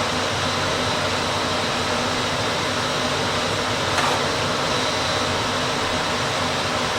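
Steady fan-like rushing noise, with one faint click about four seconds in.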